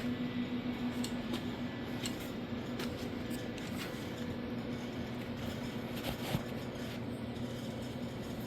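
Handling noise of a camera being set back onto its stand: scattered light clicks and rubbing, with one sharper knock about six seconds in, over a steady low hum.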